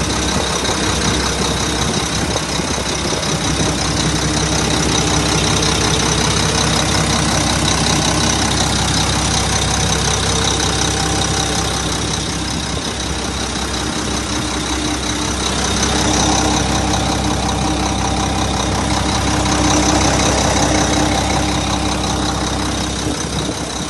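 2001 Mack dump truck's diesel engine idling steadily, with a slight rise in level twice in the second half.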